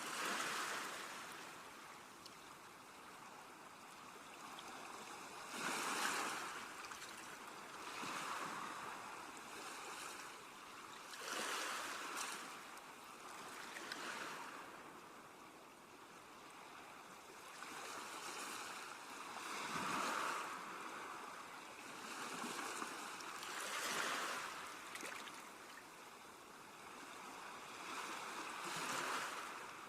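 Sea waves washing onto the shore, a steady rush of water that swells and falls back every few seconds.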